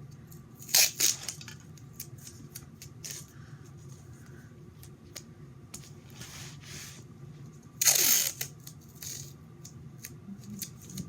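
Tape pulled off the roll and torn into strips: a short rip about a second in, a softer pull around six to seven seconds, and a longer, louder rip about eight seconds in, with light handling ticks between.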